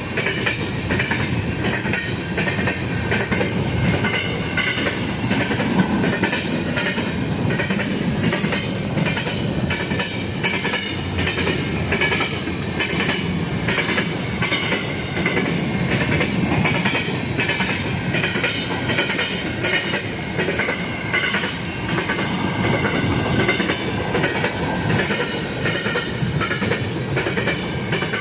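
Railcars of a passing train rolling by, steel wheels clicking steadily over the rail joints.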